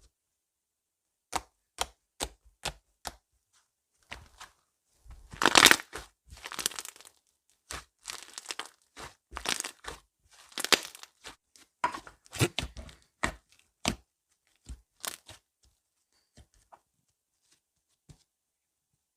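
Slime being worked by hand: a string of sharp clicks and pops, then longer crackling squishes as it is pressed and stretched, then scattered pops fading out.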